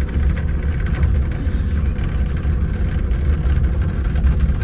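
Mountain monorail car running downhill on its rail: a steady low rumble with a faint constant whine.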